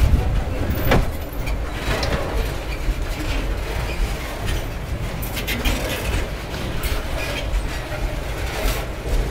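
Freight train of covered hopper cars rolling past close by: a steady rumble and clatter of wheels on the rails, with irregular clanks and rattles from the cars.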